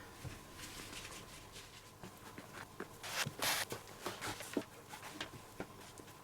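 Quiet handling of a leather baseball glove and its lace: scattered small clicks and rustles, with a couple of brief swishes a little after three seconds in as the lace is drawn through.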